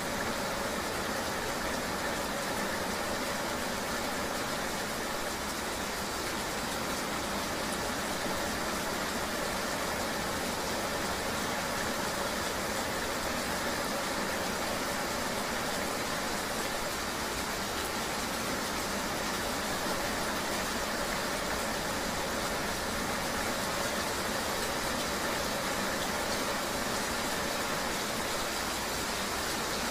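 Steady rush of a vehicle ride in the rain, an even wash of rain and road noise with a faint engine hum.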